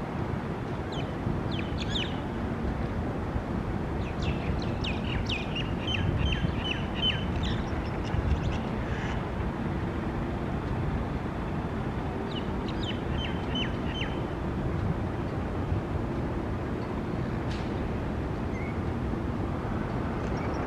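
Birds of a small feeding flock calling in short strings of quick, high, repeated notes, in two main spells about four and twelve seconds in, over a steady low background rumble.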